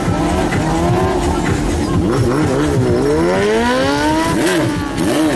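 Motorcycle engines revving, more than one at once, their pitch sweeping up and down repeatedly as the throttle is opened and closed.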